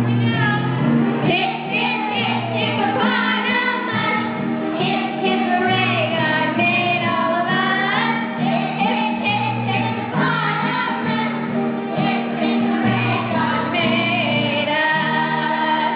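Singing over instrumental backing music: a song with a melody line and a bass holding long notes beneath it.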